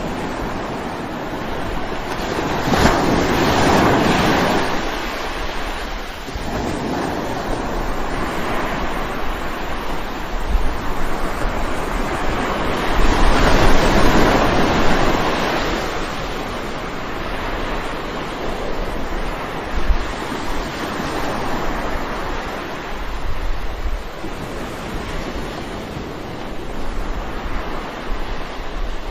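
Ocean waves breaking and washing on a shore, a steady surf wash with two larger waves swelling up, about three seconds in and again about thirteen seconds in. Low wind rumble on the microphone underneath.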